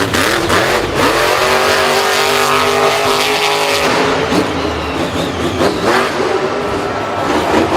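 Racing car engine running hard, a steady high drone that cuts off sharply about four seconds in, followed by rougher engine noise.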